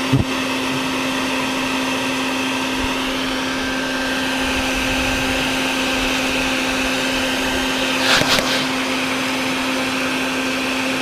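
Vacuum running steadily with a constant motor hum and rush of air as it sucks up stinging insects from a nest. A knock right at the start and a short rattling burst about eight seconds in.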